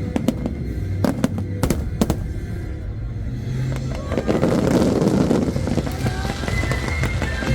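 Aerial fireworks going off: several sharp bangs in the first two seconds, then a dense spell of crackling from about four seconds in. Music with a steady low bass plays underneath.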